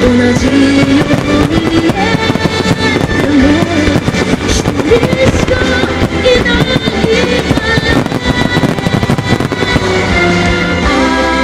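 Guitar-led music playing with many firework shells bursting and crackling in quick succession.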